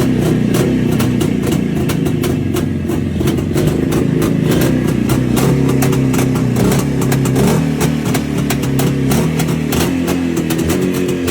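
Yezdi 350 two-stroke twin-cylinder motorcycle engine running steadily with a rapid, even exhaust beat, cold after standing for a month.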